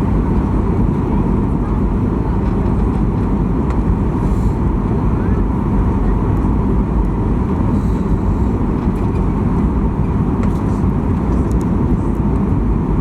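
Steady cabin noise inside a Boeing 737-800: the CFM56 engines and rushing air make an even, low-heavy drone. It holds the same level throughout with no sharp thump.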